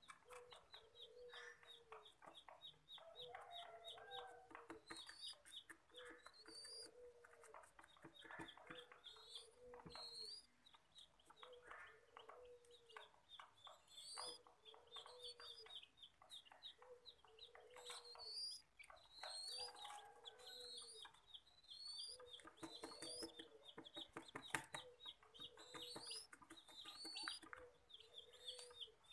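Birds calling: short, low clucking notes repeat about once a second, with high chirps and rising whistles over them and faint clicks throughout.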